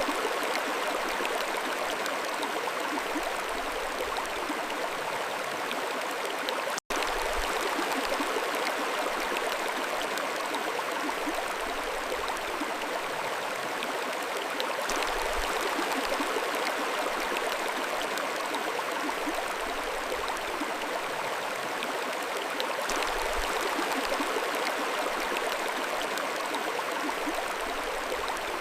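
Mountain stream flowing, a steady rush of water with light gurgling. The sound cuts out for an instant about seven seconds in.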